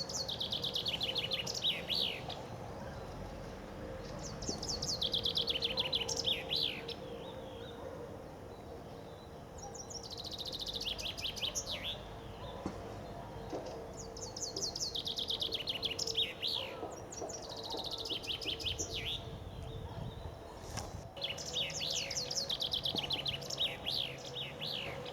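Common chaffinch singing its spring song: six phrases about four seconds apart, each a fast run of notes falling in pitch and ending in a short flourish. A faint steady hum runs underneath.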